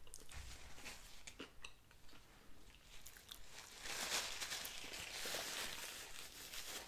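Mouth sounds of chewing a bite of Popeyes spicy fried chicken sandwich, with small scattered clicks. From about three seconds in comes a soft paper rustle as a paper napkin is wiped across the mouth.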